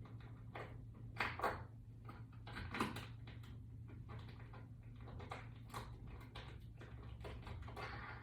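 Faint, scattered clicks and light knocks of small metal hardware being handled as a toggle bolt is fitted onto a mounting screw, over a low steady hum.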